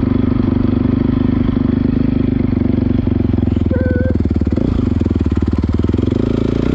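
Honda CRF450R dirt bike's single-cylinder four-stroke engine running at a steady throttle while riding, with brief dips in pitch and a slight rise near the end.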